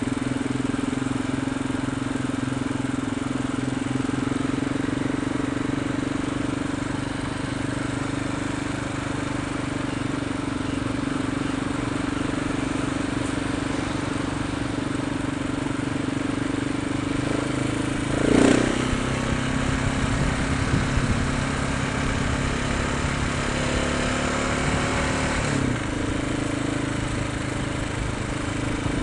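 Motorcycle engine running steadily while riding. The engine note jumps briefly about 18 seconds in and steps down again about 25 seconds in, as with changes of throttle or gear.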